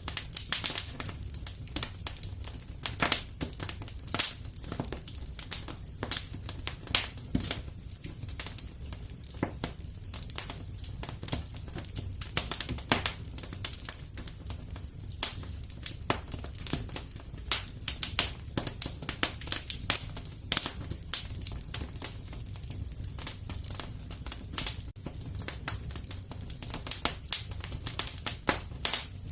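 Fireplace crackling steadily: irregular sharp pops and snaps of burning wood over a low rumble of the fire.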